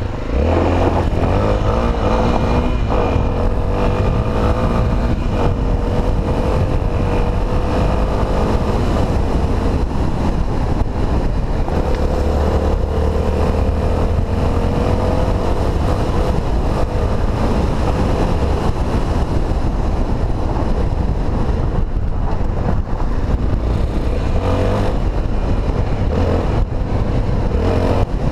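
Honda XR250 Tornado's single-cylinder four-stroke engine running under way, its pitch rising and falling as the throttle opens and closes.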